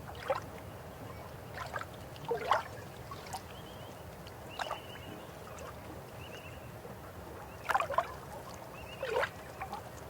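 River water flowing steadily, broken by about eight sharp gurgling plops that rise quickly in pitch, bunched around the second and eighth seconds. Faint short high chirps sound a few times.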